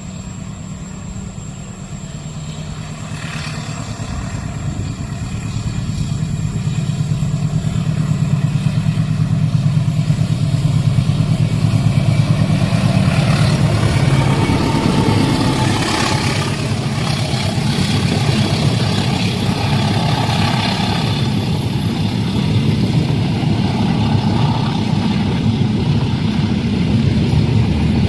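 A train passing close by: a low rumble that builds over the first ten seconds or so and then stays loud.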